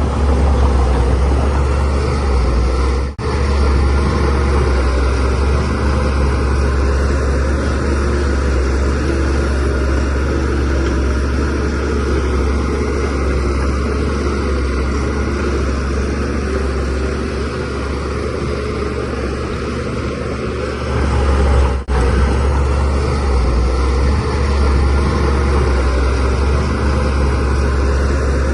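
DH17C3PRO bulldozer's diesel engine running steadily, with a strong low drone, while it pushes soil. The sound drops out for an instant twice, about 3 seconds in and again near 22 seconds.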